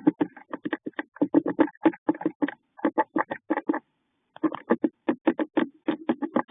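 A bird inside a nest box giving a fast, even series of short calls, about six a second, with a brief pause about four seconds in. The uploader wonders whether this is a call to a mate.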